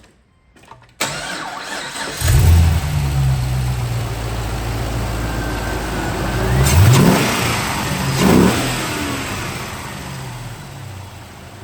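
GM LS2 6.0-litre V8 being started: the starter cranks for about a second before the engine catches and settles into a steady idle. It is blipped twice, a rising rev and then a shorter second one, each dropping back to idle.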